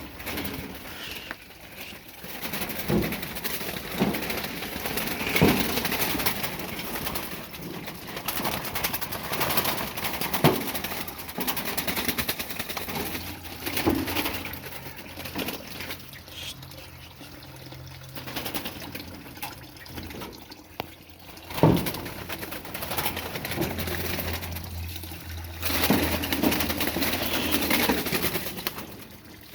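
Small birds being handled and released: rustling and fluttering, with a string of sharp knocks. A low steady hum joins about halfway through.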